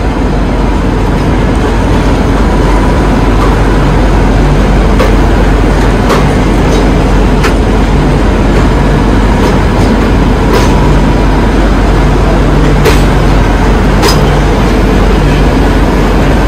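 Railway noise heard from inside a passenger train: a loud, steady rumble with a few sharp clicks.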